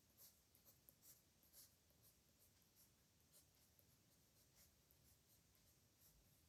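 Faint scratching of a pen on paper in short strokes, close together for the first two seconds and sparser after.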